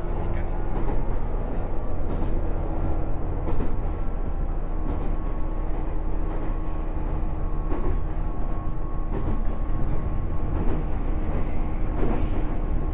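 A 107 series electric multiple unit running steadily between stations: a continuous low rumble of wheels on rail with a steady motor hum and occasional faint clicks.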